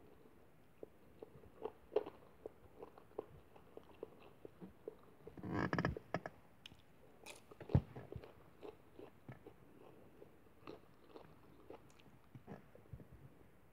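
A person chewing and eating close to the microphone, with scattered small wet clicks and smacks throughout. A louder noisy burst comes about halfway through, and a single sharp knock follows a couple of seconds later.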